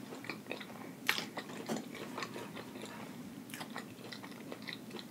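Close-miked chewing of a crunchy coated fried hash brown: a string of small crunches and wet mouth clicks, with one sharper crunch about a second in.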